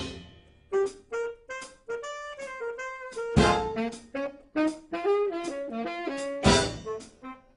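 School band music: a loud ensemble chord fades out, then a solo horn plays a melody of short notes in a jazz style. Drum and cymbal hits land about three and a half and six and a half seconds in.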